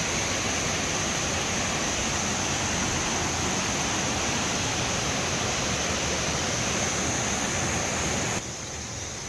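Waterfall rushing, a steady even roar of falling water that cuts off suddenly near the end.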